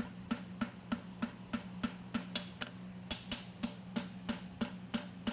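Hammer tapping a hot steel horseshoe on the anvil in quick, even blows, about three a second, forge-welding the two halves together at the toe at welding heat. A steady low hum runs underneath.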